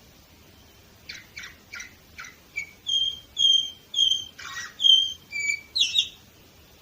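Canary singing. About a second in, a run of short sweeping notes leads into a series of clear, repeated whistled notes, with a harsher, scratchy note near the end.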